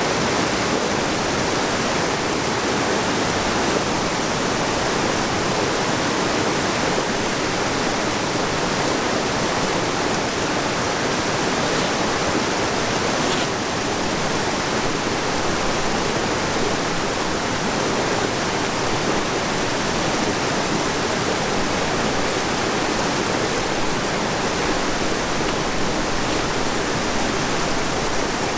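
Steady rush of flowing river water, an even wash with no break.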